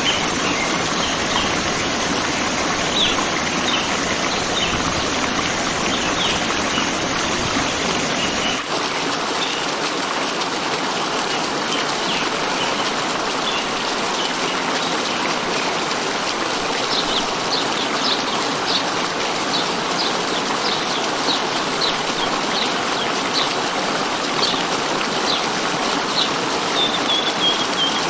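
Steady rush of running water with small birds chirping over it in short, repeated notes. The character of the water noise changes abruptly about a third of the way in.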